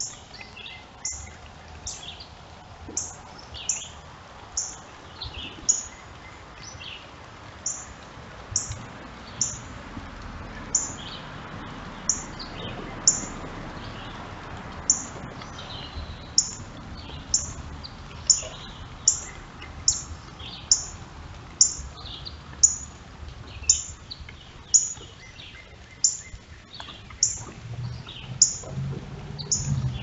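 A bird calling with short, high chirps repeated roughly once a second, with fainter calls of other birds between them. A low rumble comes in near the end.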